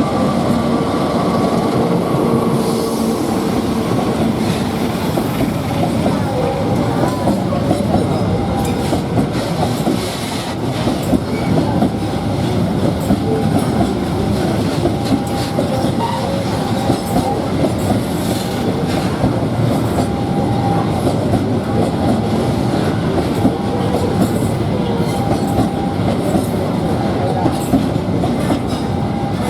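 Cement freight train rolling past, a long steady rumble of wagon wheels with repeated clicks over the rail joints.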